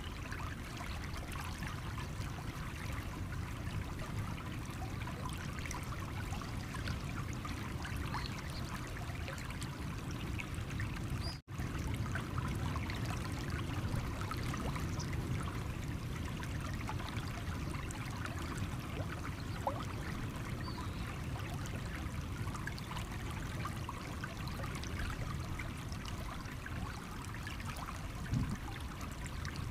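A stream running over stones, a steady babbling and trickling of water. It cuts out for an instant about eleven seconds in.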